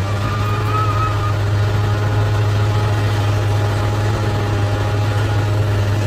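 Bulldozer's diesel engine running steadily at a low, even hum, with a faint wavering high whine in the first second or so.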